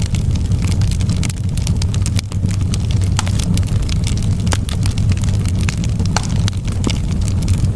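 Wood fire burning with a steady low rumble of flames and frequent sharp crackles and pops of the burning wood.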